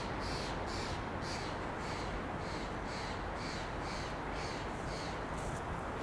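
A bird giving a rapid run of short, harsh calls, about three a second, that stops about five seconds in, over a steady rushing noise.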